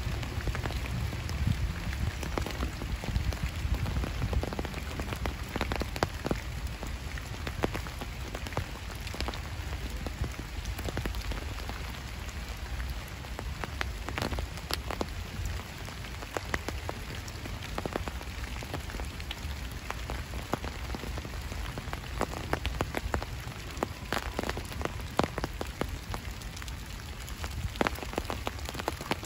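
Steady rain falling, with many sharp, close drop impacts ticking irregularly through it over a steady low rumble.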